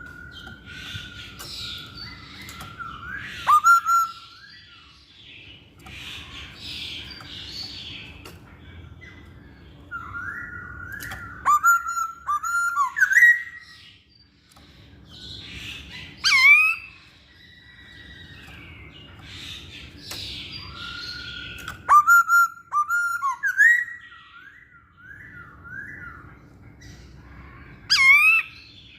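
Masked laughingthrush (poksay Hongkong) singing in repeated bursts of gliding whistled notes. Each burst peaks in loud, sharp, high calls, about five times, over a faint low background hum.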